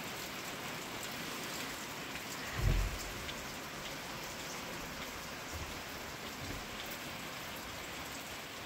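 Steady rain falling: an even hiss with scattered drop ticks. A dull low thump stands out about two and a half seconds in.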